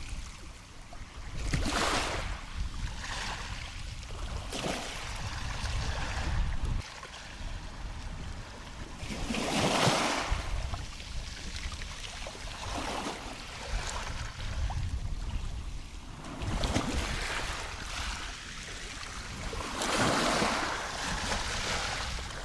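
Ocean waves washing onto the beach, with three surges several seconds apart, over a low rumble of wind on the microphone.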